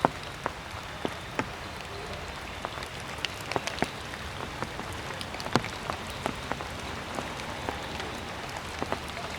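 Raindrops dripping after rain: irregular sharp drips, a few a second, over a steady hiss.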